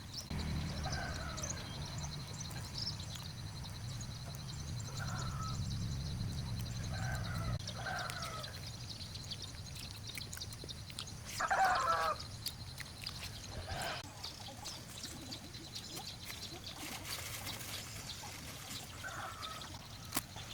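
Poultry calling now and then, with short separate calls scattered through the stretch; the loudest is a burst of calls about twelve seconds in.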